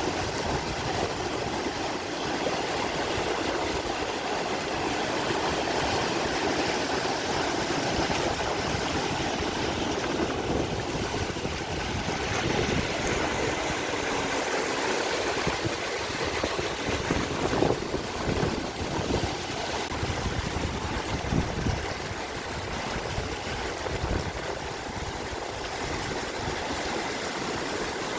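Steady rush and splash of water falling in a decorative street fountain cascade.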